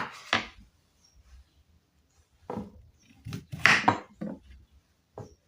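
Knife cutting peeled potatoes on a chopping board: a handful of irregular knocks of the blade against the board, with pauses between them and the loudest a little past the middle.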